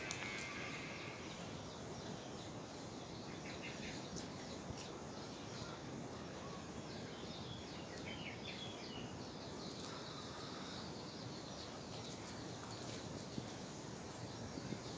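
Steady outdoor background noise with small birds chirping now and then in short repeated trills.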